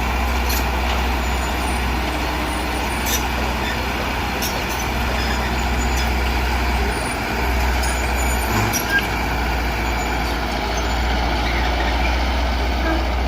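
Heavy diesel earthmoving machinery running steadily, with a low engine drone and a few faint clanks.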